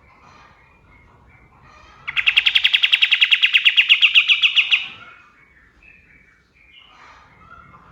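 Kapas tembak songbird singing a fast, even trill of about ten sharp notes a second for nearly three seconds, starting about two seconds in, with softer scattered chirps before and after.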